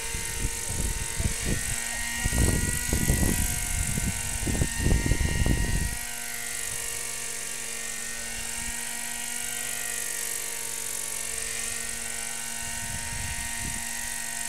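Small glow or gas engine of a radio-controlled model aircraft running steadily in flight, its whine wavering slightly in pitch as it passes. Wind buffets the microphone with low rumbling gusts for the first six seconds or so.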